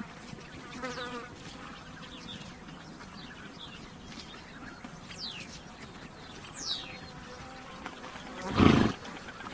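A horse snorts once near the end, a short forceful blow. Earlier come a few faint bird chirps, each a quick falling note.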